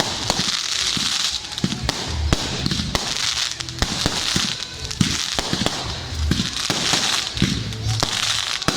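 Firework display: many sharp bangs and cracks in quick, irregular succession over a continuous hiss and crackle of bursting shells.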